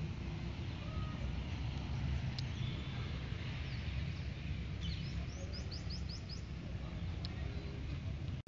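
A bird chirping a few times, with a quick run of about six short falling chirps about five seconds in, over a steady low rumble of outdoor ambience.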